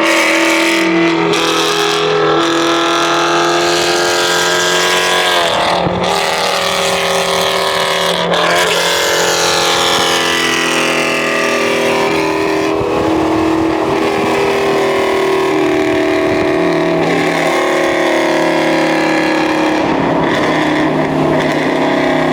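Car engine held at high revs, with quick dips and swoops in pitch about six and eight seconds in, as when the throttle is blipped.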